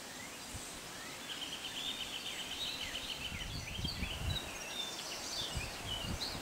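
Songbirds singing outdoors: a quick trill about a second in, then scattered chirps and whistles over a steady background hiss. From about halfway through, low rumbling buffets hit the microphone.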